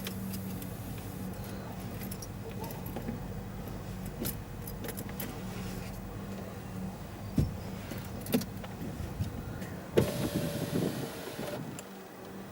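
Car engine idling steadily, with scattered clicks and knocks. About ten seconds in there is a short, louder rattling whir.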